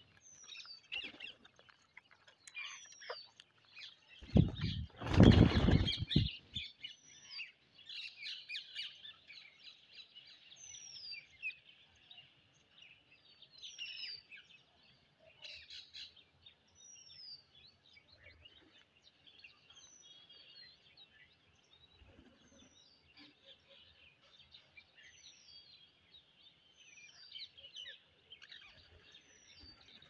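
Birds chirping: short falling chirps repeat every second or two over a steady chatter of calls, with one loud burst about five seconds in.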